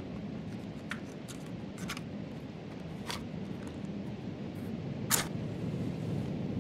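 A steady low rumble with about five sharp, scattered clicks or crackles; the loudest comes about five seconds in.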